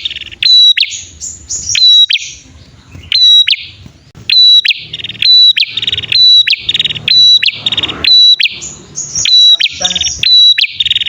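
Prenjak (prinia) pair calling: a string of sharp, loud repeated notes, about two a second, mixed with buzzy rattling trills, thickest in the middle.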